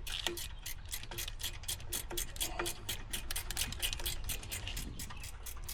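Rapid, even mechanical ticking, about eight to ten clicks a second, over a low steady hum.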